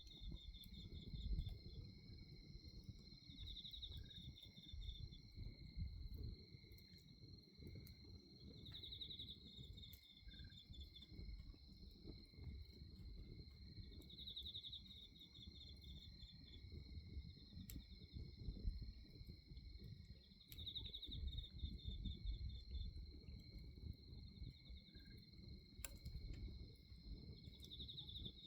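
Crickets and other night insects trilling steadily, with a short pulsed chirp phrase recurring about every five to six seconds. Underneath, the low, uneven rustle of a bonfire with a few sharp crackles.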